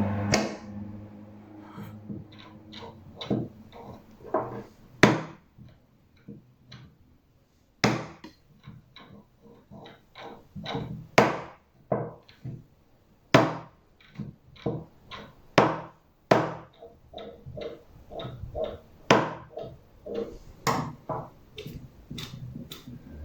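Irregular clicks and knocks of parts being handled and fitted together by hand, with light clatter between the louder knocks, as a small motor is put back together.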